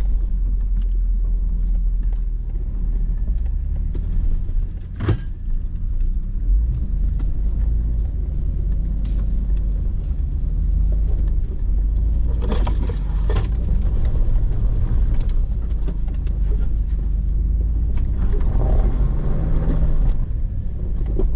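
Hummer H2's V8 engine running at low crawling speed as it climbs a rocky ledge with its differential locker engaged. The engine's low rumble is steady throughout. Sharp knocks and scrapes from the rocks or the truck's body come about five seconds in and again in a cluster around twelve to thirteen seconds in.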